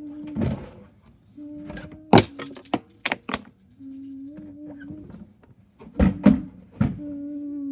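Small motor in a toy garbage truck's hopper mechanism whining at a steady pitch in short runs of a second or two, several times, between hard plastic clacks and knocks; the loudest knocks come about two seconds in and again around six seconds in.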